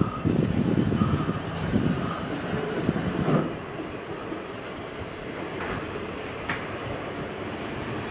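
Thai local passenger train coach running along the track, with the noise of the wheels and carriage heard from an open window. It is louder for the first few seconds and eases off after about three and a half seconds.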